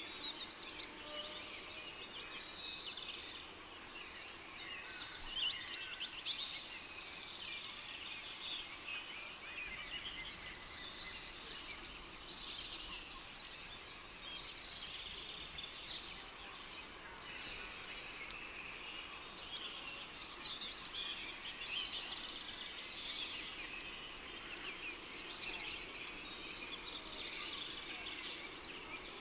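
Rainforest ambience: a cricket chirps in a high, even pulse several times a second, breaking off for a couple of seconds about seven seconds in, over scattered bird calls.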